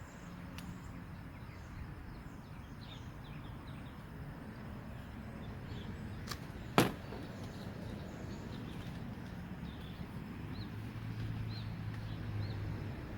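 A sharp click a little past halfway, with a fainter one just before it, over outdoor background with small birds chirping.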